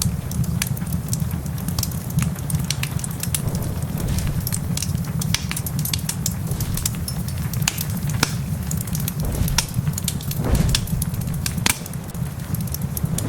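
Wood fire crackling in a fireplace, with frequent sharp pops and snaps throughout. A louder crack comes about ten seconds in. Beneath it runs a steady low rumble.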